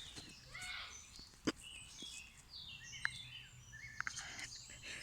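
Wild birds singing and chirping, several overlapping calls made of quick falling notes. A few sharp clicks cut in, about one and a half, three and four seconds in.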